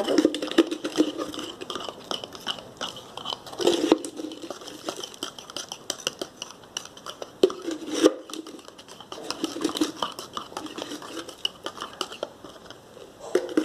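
Metal spoon stirring cake batter in a dish, clinking and scraping against its sides in quick irregular clicks, with a few louder knocks.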